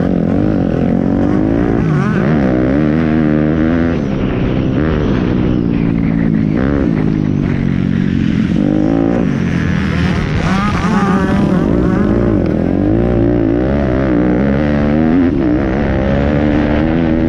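Several pit bike engines running together in a race, their pitches repeatedly rising and falling as the riders open and close the throttle.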